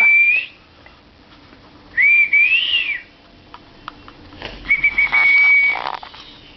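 A child blowing a toy whistle in three short blasts, each one steady high note lasting about a second, roughly two seconds apart.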